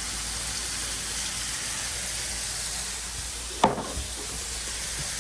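Burger patties sizzling steadily on a hot griddle, with one sharp knock about three and a half seconds in.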